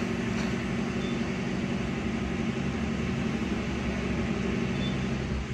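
2005 Daihatsu Zebra Espass's carburetted petrol engine running steadily on a lightly held throttle at just over 1,000 rpm, heard from inside the cabin. This is a cold-engine warm-up after about a week unused, with the choke already pushed back in.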